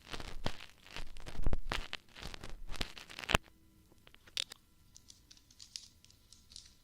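Ear-cleaning tools scratching and crackling close in the ear in quick, uneven strokes for about three and a half seconds, then only a few faint scattered clicks.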